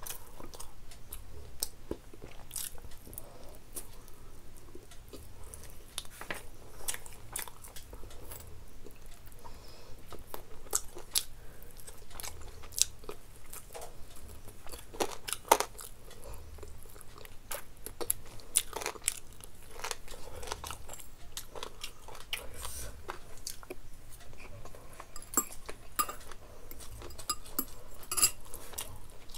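A person chewing and biting food close to the microphone, with frequent, irregular crisp crunches and mouth clicks.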